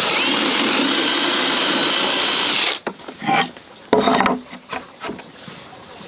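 An electric power tool running on wood with a steady high whine, switched off abruptly a little before halfway through, followed by a few knocks and scrapes of wood being handled.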